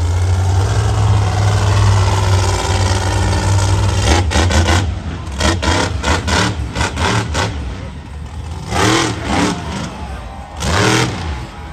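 Monster truck engine running loudly at high revs, then a quick run of sharp cracks about four seconds in as the revs drop, and two short bursts of throttle near the end.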